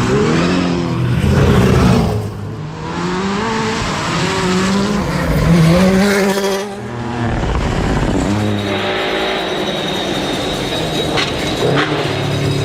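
Rally car engine revving hard, its pitch climbing and dropping again and again as it shifts gears. The engine note falls away briefly about two seconds in and again about seven seconds in. A high steady whine joins about nine seconds in, and two sharp cracks come near the end.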